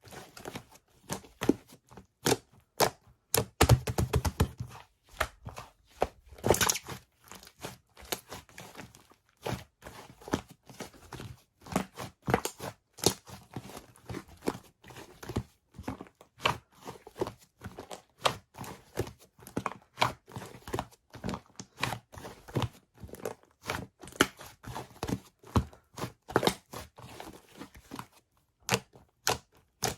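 Bread being handled and torn, with crackly crust and wrapper crinkling in irregular sharp clicks and a few denser rustling bursts.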